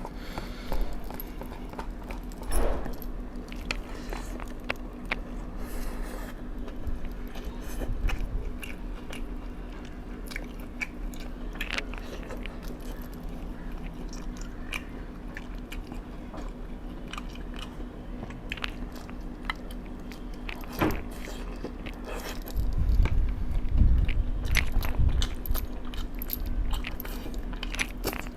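Close-miked chewing and biting of food, with many small crunches and clicks of the mouth. A steady low hum runs beneath, and heavier low thumps come in about three quarters of the way through.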